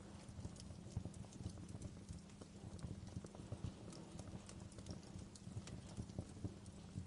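Fireplace fire crackling, a steady low rumble scattered with irregular small pops and snaps.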